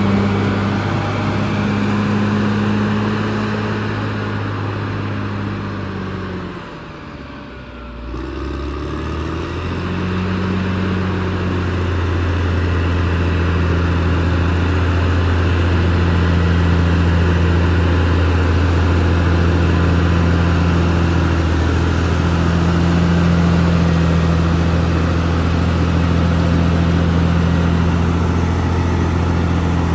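Caterpillar D6R XL bulldozer's diesel engine running steadily as the machine works. About seven seconds in, the engine note drops and goes quieter, then rises back to a steady pitch for the rest.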